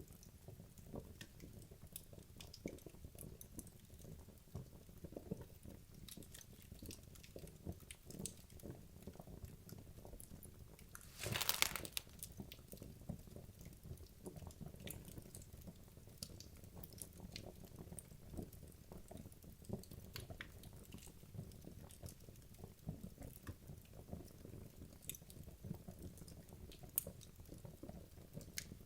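Wood logs burning in a fireplace, crackling with frequent small, sharp pops over a low steady rumble of the flames. About eleven seconds in, a brief louder hiss lasts under a second.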